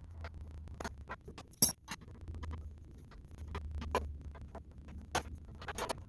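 Scattered metallic clinks and taps of hand tools against engine parts, irregular and without rhythm, with one sharp loud click about a second and a half in.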